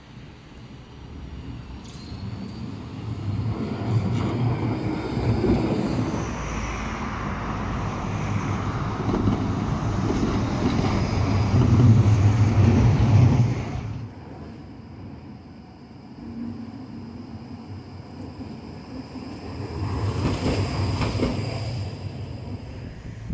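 Tram running on street track: a heavy rumble builds over several seconds, is loudest just before it cuts off sharply a little past halfway, and a second, shorter vehicle pass rises near the end.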